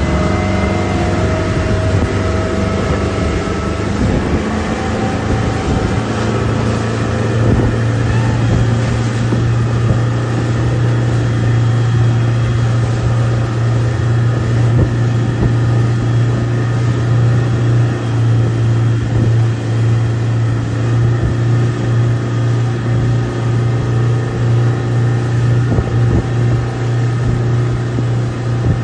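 Boat engine running at a steady speed: a loud, even low drone with steady higher tones over it.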